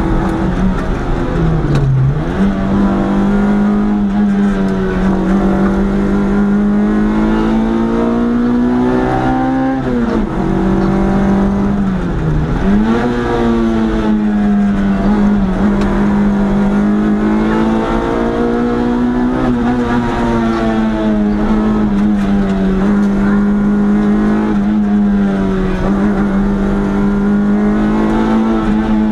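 Historic rally car's engine heard from inside the cockpit, running hard at high revs up a winding climb. The engine note holds a steady high pitch, dropping and climbing back three times in the first half.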